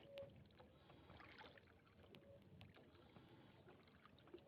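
Near silence: faint background noise with a few soft clicks.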